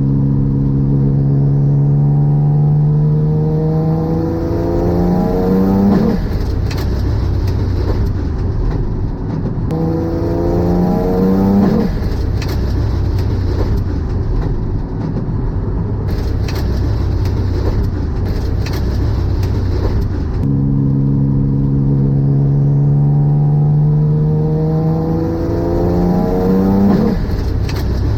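Car engine accelerating hard in three pulls, its pitch rising through the revs each time and cutting off abruptly at a shift or lift, with steady road noise in between. Only the front engine of a twin-engine Mazda MX-3 is driving the car.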